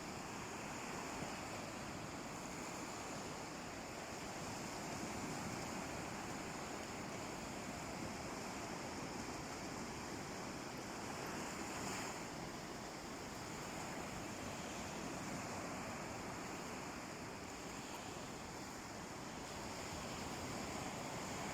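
Sea waves washing onto a beach: a steady rush of surf that swells and eases gently every few seconds.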